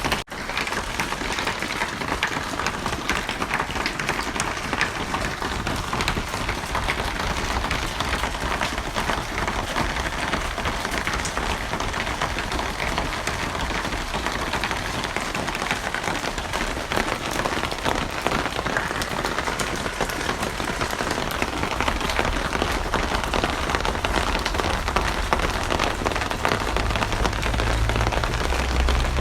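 Steady heavy rain, a dense hiss dotted with countless drop patters, recorded for sleep. It cuts out for an instant just after the start, and a low rumble builds in under the rain near the end.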